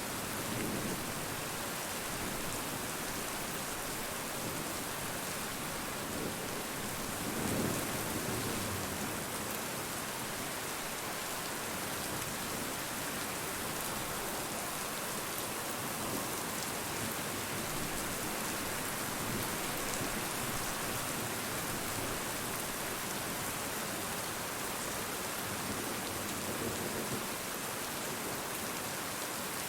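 Steady, heavy rain falling and pattering on surfaces, with a brief low rumble about seven seconds in.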